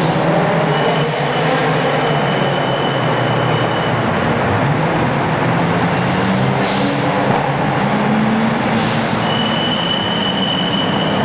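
Performance car engines and exhausts running loudly and echoing in a road tunnel, their pitch shifting, with a high steady whine that comes and goes.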